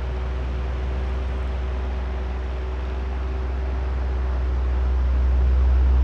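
Electric oscillating fan running: a steady low motor hum with a faint whine over an even rush of air, slowly swelling louder toward the end as the fan head swings round.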